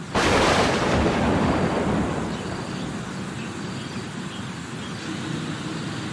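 A sudden thunderclap just after the start, fading over about two seconds into the steady hiss of heavy rain.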